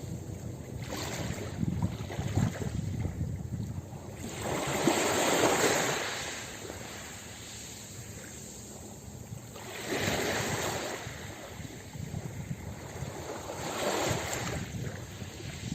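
Ocean surf breaking on a beach: three surges of wave noise about four seconds apart, the loudest about five seconds in, each washing in and fading back.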